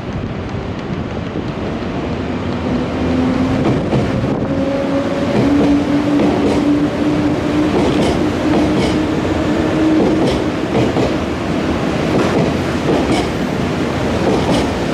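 Nankai Main Line electric train moving through the station: the motor hum rises slowly in pitch as it gathers speed, and the wheels clack over rail joints, growing louder.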